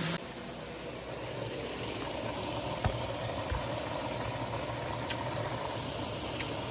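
Steady hiss of food cooking on a kitchen stove, with a low hum underneath and a couple of faint clicks.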